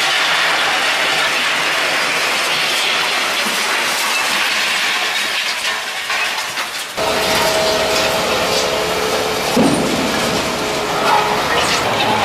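Heavy construction machinery working: a steady noisy rumble and hiss with scattered clanks. About seven seconds in the sound changes abruptly, and a steady two-note whine runs for a few seconds with a couple of knocks.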